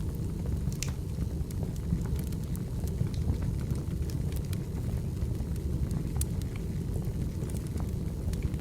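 Wood fire burning steadily, a low rumble with scattered sharp crackles and pops from the burning firewood.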